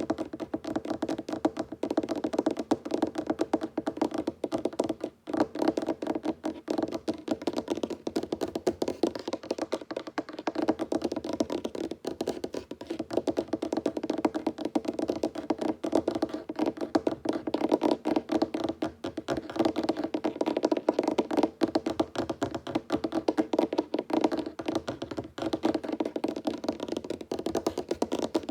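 Fingertips and nails tapping fast on a wooden tabletop: a dense, continuous patter of quick taps with a hollow wooden ring.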